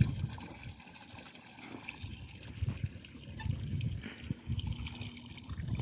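Water trickling and splashing in irregular bits.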